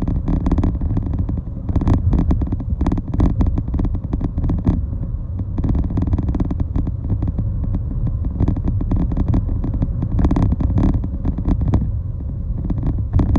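Road traffic noise: a steady low rumble with frequent irregular clattering knocks.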